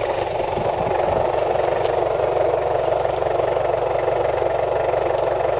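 Steady engine and dirt-road noise from a Toyota Prado 120 four-wheel drive driving along a rough outback track.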